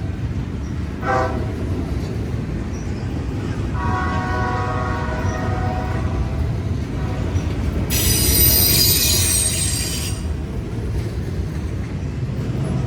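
A passing train rumbles steadily. Its air horn sounds briefly about a second in, then again for about two seconds from around four seconds in. From about eight seconds in, the wheels squeal high-pitched on the rails for about two seconds, the loudest sound.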